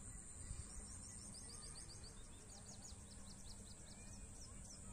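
A small bird calling a fast run of short, high, falling notes for about four seconds. Under it is a steady high hiss and a low outdoor rumble, all faint.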